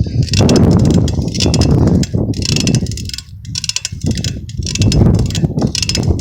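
Riding a bicycle: wind rumbling on the microphone, with fast ticking, likely from the bike's freewheel.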